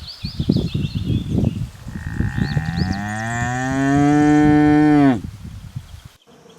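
Bull mooing: one long low call about two seconds in, rising, held for about three seconds, then falling away. Before it comes a run of short, irregular rough sounds.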